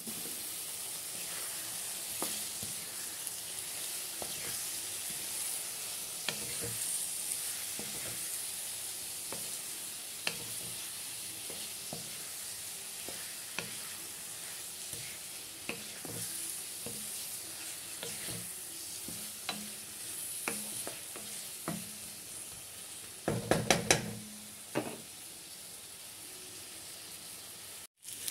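Potato and cauliflower pieces frying in spiced masala in a metal wok, sizzling steadily while a wooden spatula stirs and scrapes them. Scattered knocks of the spatula against the pan, with a quick run of louder knocks near the end.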